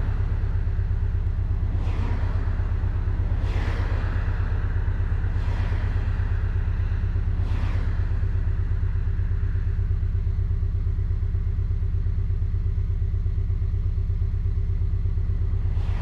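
Porsche 718 Boxster's turbocharged flat-four engine cruising at a steady pace, a deep, even rumble. Four short whooshes, about two seconds apart, come in the first half, then it settles to the steady rumble alone.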